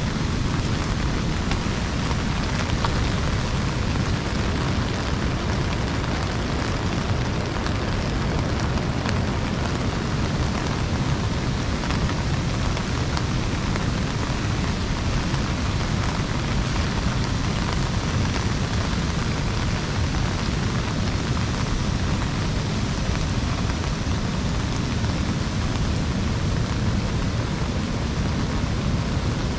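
Steady rain falling on an umbrella, a dense, even patter over a low, unbroken rush.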